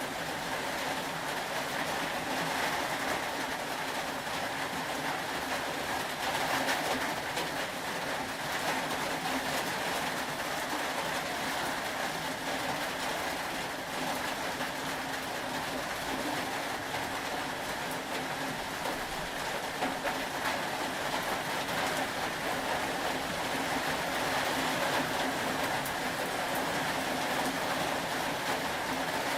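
Steady rain: an even hiss with many small drop taps all through.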